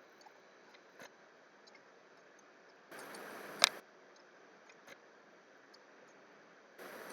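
A few faint clicks at a computer, then one sharp click about three and a half seconds in, during a brief stretch of louder hiss.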